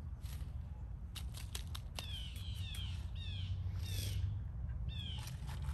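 A bird calling a rapid series of short, downward-slurred notes, about three a second, starting about two seconds in with a brief break near the middle. Light clicks and taps from hands handling tools or the pot come before it, with a low steady rumble underneath.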